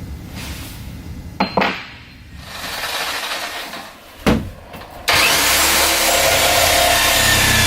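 A few knocks and clunks of work on the boat's fittings, with a sharp knock about four seconds in. Then, about five seconds in, a power saw starts abruptly and runs steadily, cutting.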